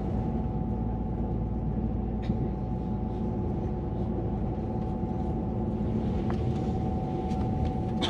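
Cabin noise of the Transwa Prospector diesel railcar running at speed: a steady low rumble with a constant hum-like tone over it and a few faint clicks.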